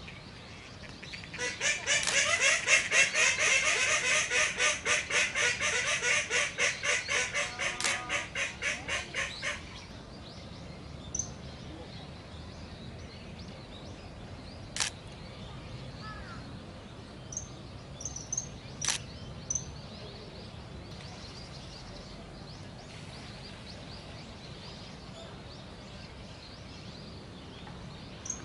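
Bird calls: a loud run of rapid harsh calls, about four a second, for some eight seconds, fading toward the end. Later come a few short high-pitched calls and two sharp clicks.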